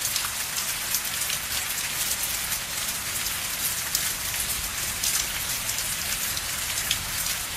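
Steady rain falling, an even hiss with the ticks of individual drops striking a surface.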